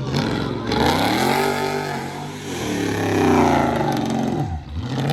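A car engine revving hard twice, its pitch climbing and then falling each time.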